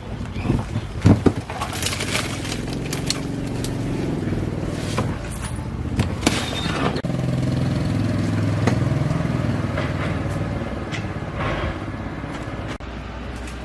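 A motor vehicle engine running, its pitch rising and falling a little, with scattered sharp knocks and metallic clatter on top.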